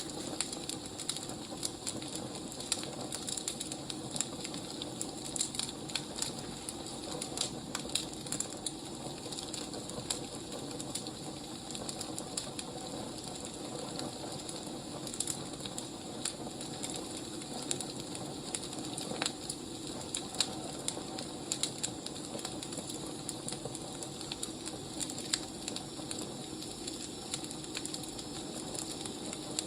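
Wood fire burning, with irregular crackles and pops over a steady hiss.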